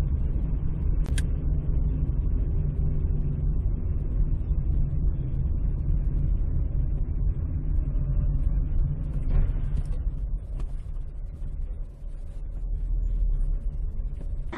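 Car driving with a steady low rumble of engine and road noise, with a light click about a second in.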